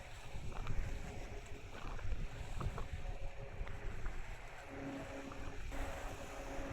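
Car ferry Kanaya Maru's engines running with a steady low hum under wind rumbling on the microphone; the hum fades out for a few seconds and comes back near the end.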